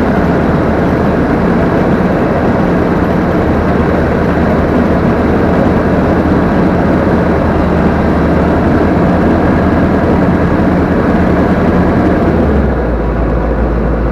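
Combine harvester's engine and machinery running steadily, heard from the operator's position. About twelve and a half seconds in, the sound drops a little and its higher part falls away.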